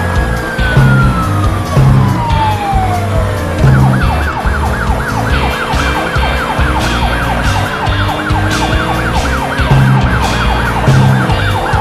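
Cartoon soundtrack: background music with a steady beat, over which a tone slides down in pitch over the first few seconds. About four seconds in, a fast warbling emergency-vehicle siren starts and keeps going.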